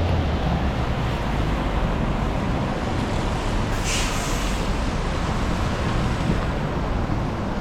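City street traffic: a steady rumble of engines and tyre noise, with a short, sharp hiss about four seconds in.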